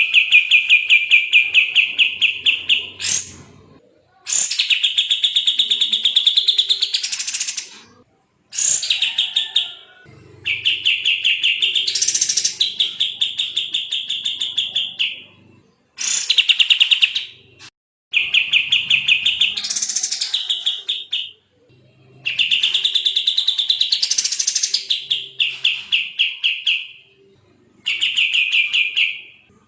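A kapas tembak bird singing in fast, dense bursts: rapid runs of repeated chattering notes, each run lasting a few seconds, broken by short pauses. This is the continuous, energetic song that bird keepers call gacor.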